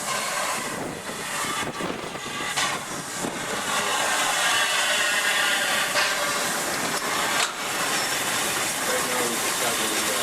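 Model steam train running, with a steady hiss of steam and the noise of the train on the track.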